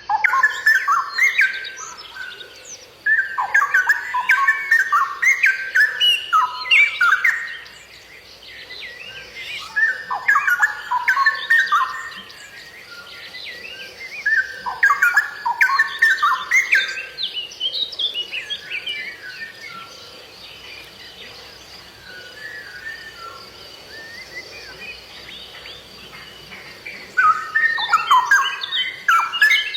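A songbird singing in bouts of rapid, varied whistled phrases, loud for a few seconds at a time with softer singing between the bouts.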